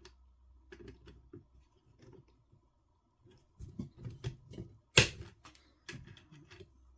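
Small plastic and metal clicks from pliers working an RC car's turnbuckle rod end, then one sharp snap about five seconds in as the plastic ball cup pops onto its ball stud.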